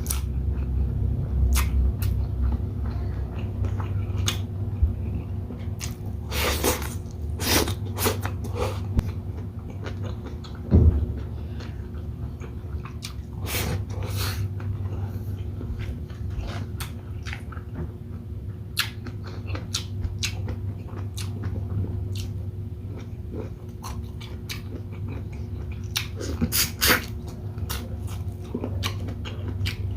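Close-up chewing and biting of a person eating shrimp in coconut milk with rice: scattered wet clicks and mouth smacks, busiest in a few short clusters, over a steady low hum.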